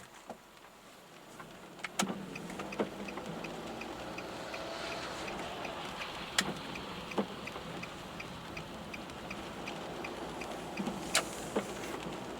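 Inside a car driving in the rain: a steady rush of tyres and rain that swells about two seconds in, with a turn-signal indicator ticking about two to three times a second. Sharp knocks come in pairs about every four to five seconds, like wiper blades at each end of their sweep.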